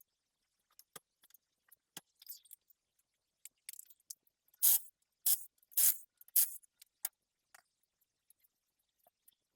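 Hand-tool and workshop handling noises from work on a car: scattered light clicks and clinks, then four short, loud, hissy scraping bursts in quick succession about halfway through.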